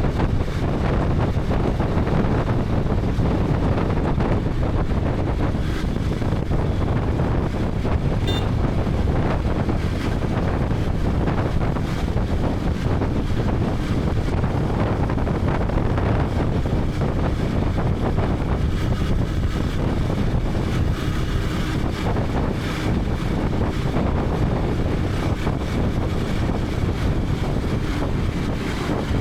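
Wind buffeting a helmet-mounted action camera's microphone on a moving KTM 250 Adventure, with the bike's single-cylinder engine and road noise running steadily underneath.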